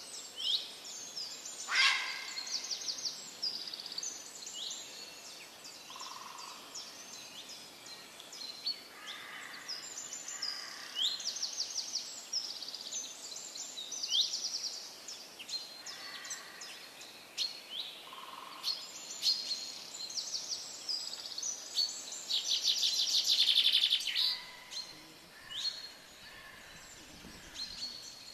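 Wild birds chirping and singing over one another, many short high falling notes repeated again and again, with a loud rapid trill about three quarters of the way through.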